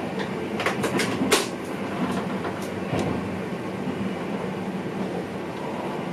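Running noise in the cab of a VIRM double-deck electric train, with several sharp clicks in the first second and a half and one more about three seconds in.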